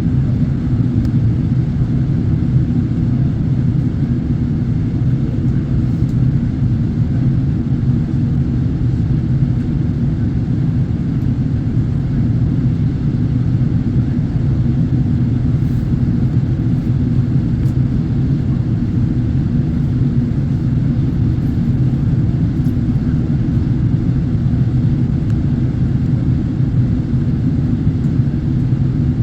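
Steady low rumble of a jet airliner in flight, heard from inside the cabin as engine and airflow noise during the approach to landing.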